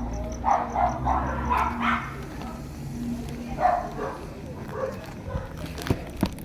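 Dog barking and yipping in short bursts, several times. A couple of sharp knocks near the end.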